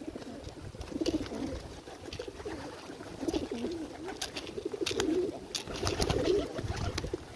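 Several pigeons cooing continuously while feeding, with sharp clicks of beaks pecking at grain scattered among the coos, most often past the middle.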